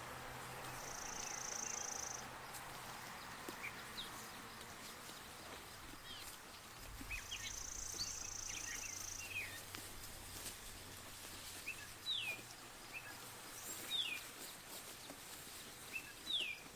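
Small birds chirping across an open pasture: short, quick down-slurred chirps, more of them after the first few seconds. Twice a thin, high, steady note is held for about two seconds, and a faint low drone runs underneath.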